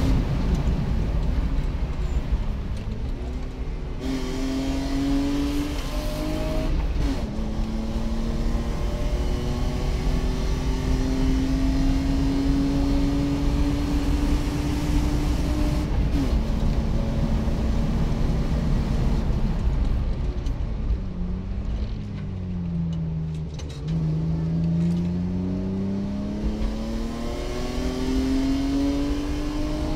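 BMW E36 320i's 2.0-litre 24-valve straight-six at full throttle, heard from inside the cabin. The revs climb in long pulls and drop sharply at upshifts twice. Near the middle they fall low and wander through a corner, then climb again near the end.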